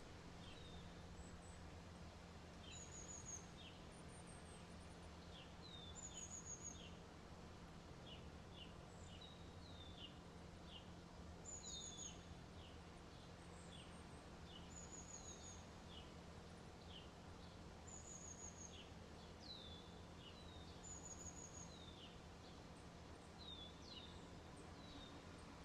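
Faint birds chirping: short high chirps and a brief trill repeating every couple of seconds, over a steady low hum.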